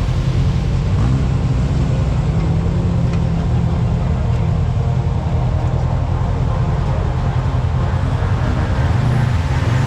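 Side-by-side UTV engine running steadily under way, a loud low drone with a brief dip and rise in pitch near the end.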